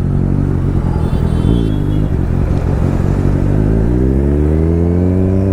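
Kawasaki Z900's inline-four engine pulling away from a stop. It runs steadily at first, dips briefly, then rises smoothly in pitch as it accelerates through the second half.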